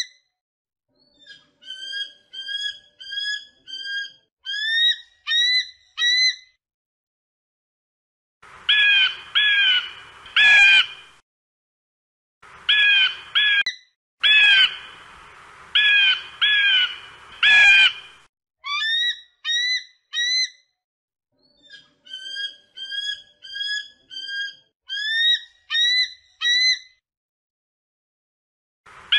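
Bald eagle calling: runs of short, high piping whistles, each note rising then dropping, five to eight notes to a run. The louder, harsher runs come in the middle.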